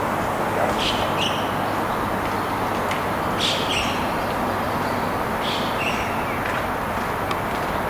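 Small birds chirping in short calls, about five times, over a steady background noise.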